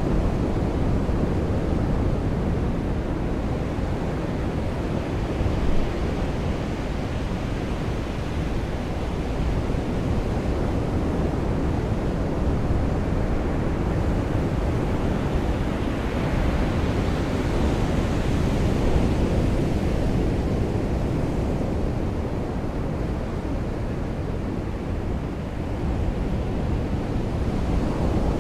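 Ocean surf washing on a beach under steady rain, a continuous rushing hiss that swells louder about two-thirds of the way through as a wave comes in.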